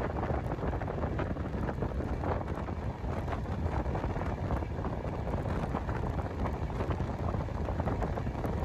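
Güney Kurtalan Express passenger train running: a steady low rumble with many small clicks and rattles from the wheels and carriage.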